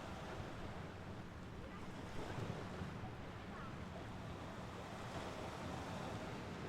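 Mediterranean Sea waves washing onto the shore: steady surf, a little louder about two seconds in.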